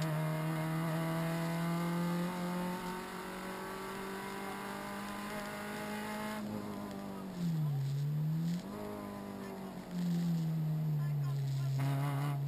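Renault Clio RS rally car's four-cylinder engine heard from inside the cabin, pulling under load with the revs slowly climbing, then easing off about six seconds in. The revs dip and rise again around eight seconds in, and the engine pulls steadily again from about ten seconds in.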